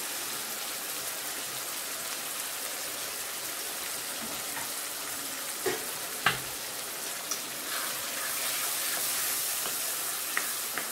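Tomato, shallot and chilli masala sizzling in oil in a kadai: a steady hiss, with two sharp clicks about six seconds in and a ladle starting to stir and knock the pan near the end.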